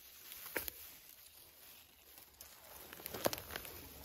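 Faint rustling of forest-floor litter, with a few light, sharp crackles: small snaps and clicks about half a second in and again near the end.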